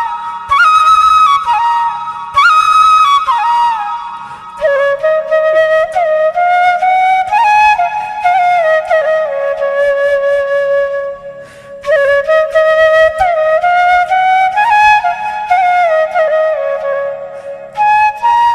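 Background music: a solo flute melody of held notes joined by sliding bends in pitch, with a brief pause about two-thirds of the way through.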